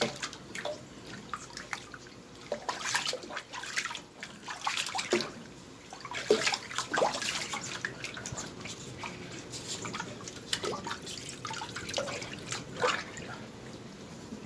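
Water splashing and dripping in irregular bursts as a kitten is washed by hand to rinse off fleas.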